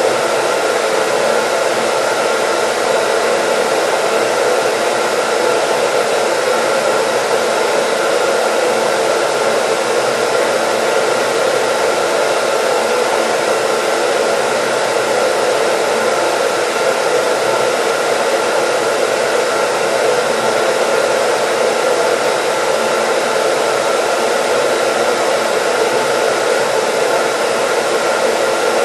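Hair dryer running steadily, a continuous even rush of air with a faint motor hum and no change in speed, played as white noise.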